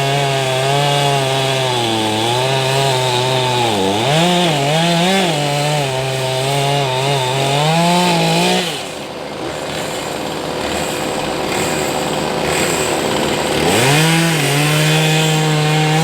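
Two-stroke chainsaw running at full throttle through wood, its pitch sagging and recovering in the cut. About halfway through the throttle is let off and it falls to a low idle, then revs back up to full speed near the end.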